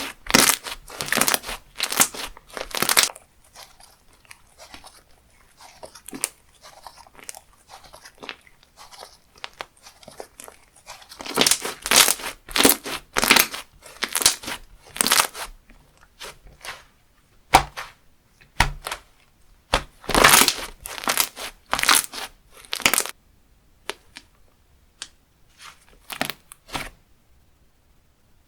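Textured slime squished and pressed by hand, crackling and crunching in clusters with quieter stretches between, dying away near the end.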